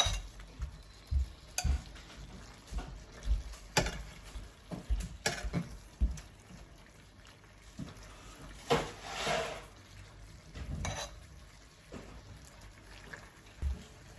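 Utensil stirring prawns into a pan of sauce, with irregular knocks and clinks against the pan and a short hiss about nine seconds in.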